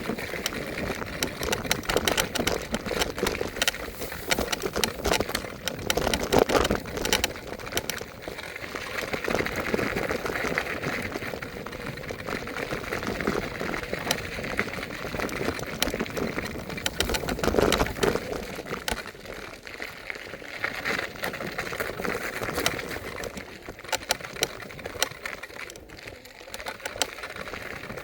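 Electric scooter riding along, with dense rattling and clicking from its frame and wheels over a steady rolling noise.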